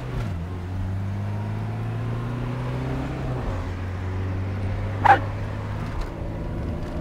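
Car engine running with a low steady hum that rises slightly in pitch, then drops back about three and a half seconds in. One short, sharp high-pitched sound cuts in about five seconds in.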